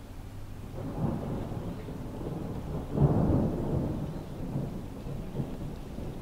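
Gusty wind buffeting the microphone, a low rumble that swells about a second in and is loudest about three seconds in.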